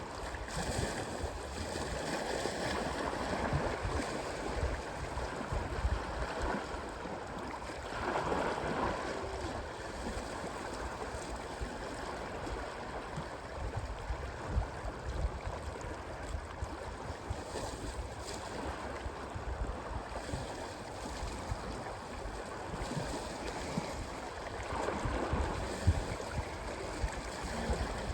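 Waves washing in on a shore, swelling twice, with wind buffeting the microphone.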